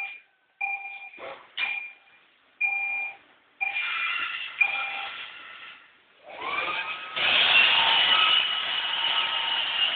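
iRobot Roomba robot vacuum giving a series of short beeps. About six seconds in, its motor spins up with a rising whine and then runs steadily as the vacuum starts cleaning.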